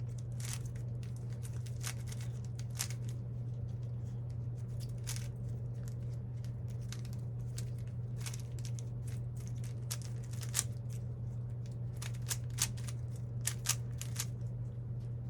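Plastic puzzle cube being turned by hand: irregular quick clicks as its layers are twisted, over a steady low hum.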